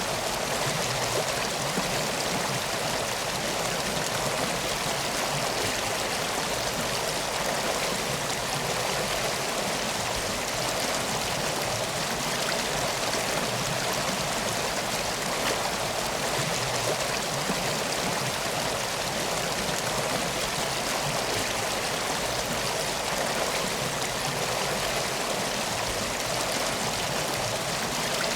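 Steady rushing of flowing river water, unchanging throughout.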